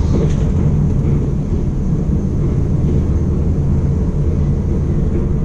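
Steady low rumble of the KLIA Transit electric train running at speed, heard inside the passenger cabin, with a brief rush as an oncoming train passes close alongside at the start.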